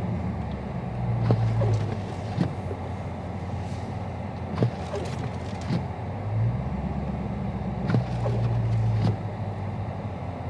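Dodge Charger Scat Pack's 392 Hemi V8 running at crawling speed in stop-and-go traffic, heard from inside the cabin. Its low drone swells a few times as it pulls forward, with a few scattered light clicks.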